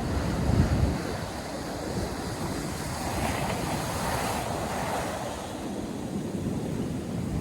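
North Sea surf breaking and washing on a sandy beach, rising to a rushing swell about midway. Wind buffets the microphone with a low rumble in the first second.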